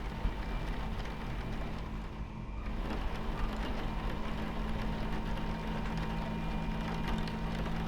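Steady low rumble and hum of a train running, heard from inside the carriage, with faint rain pattering over it. The higher hiss briefly drops away about two seconds in, then returns.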